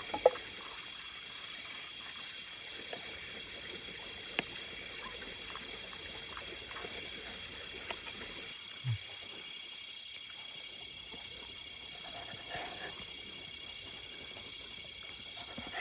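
Steady chorus of insects over trickling creek water, easing off a little about halfway through. A few faint knife clicks and one soft knock come as a tomato is cut.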